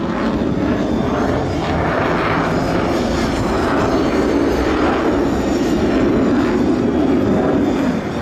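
Loud, steady jet noise from an F-16 fighter jet in flight.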